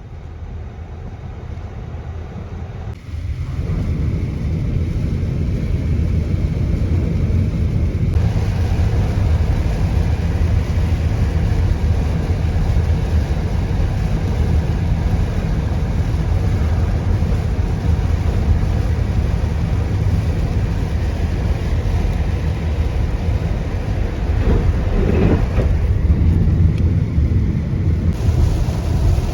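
Steady low rumble of a car's engine and tyres on the road, heard from inside the car; it grows louder about three seconds in.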